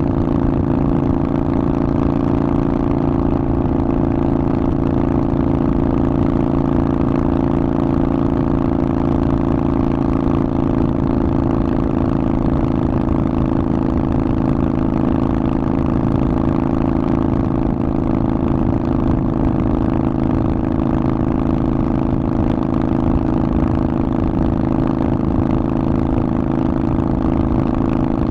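Harley-Davidson Sportster Forty-Eight's air-cooled V-twin running through a Vance & Hines aftermarket exhaust, holding a steady engine speed with no revving.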